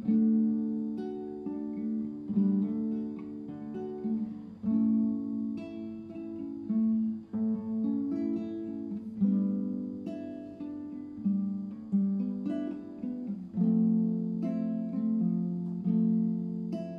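Acoustic guitar music, chords strummed and plucked with the chord changing every second or so.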